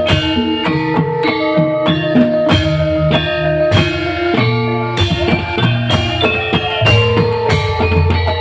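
Live band music: a plucked-string melody over bass notes and a steady drum beat.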